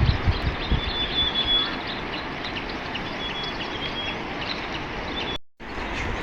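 Rural outdoor ambience: a steady rushing background noise with small birds chirping and giving a few thin high whistles. Wind buffets the microphone in the first second, and the sound cuts out for a moment near the end.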